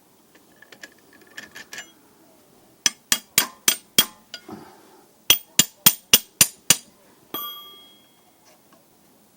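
A hammer striking metal in two quick runs of blows, five and then six at about four a second, followed by a single clang that rings on briefly. Faint metallic clinks come before the blows.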